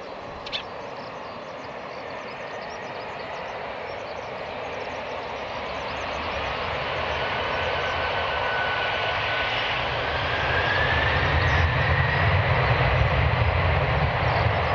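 Jet engines of a Boeing 767-300ER airliner growing steadily louder, with a whine that rises in pitch and a deep rumble building up. A brief click about half a second in.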